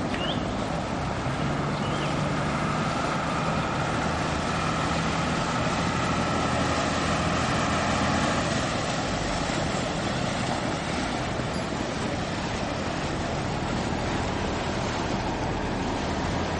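A pilot launch's engine runs with a steady drone while water rushes past the hull, with some wind noise.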